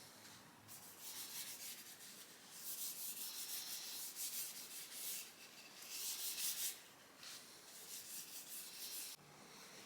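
Boiled linseed oil being rubbed by hand into a wooden ash hammer handle: faint, rapid back-and-forth rubbing strokes in spells of a second or two, with short pauses between them.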